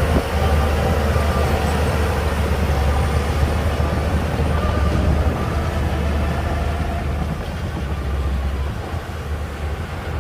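Shantui DH17C2 crawler bulldozer running, a steady low diesel rumble with faint higher tones over it; the rumble eases a little near the end.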